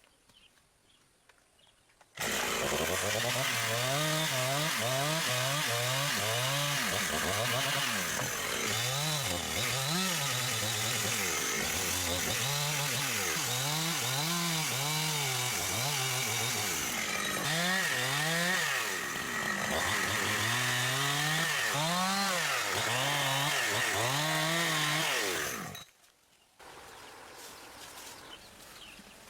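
Chainsaw cutting through large timber. Its engine pitch rises and falls about once a second as the chain bites into the wood and frees. It starts suddenly a couple of seconds in and stops suddenly near the end.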